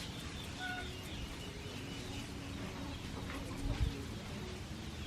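Faint, scattered bird calls: short chirps and a few brief peeps over a steady outdoor background noise, with a dull thump near the end.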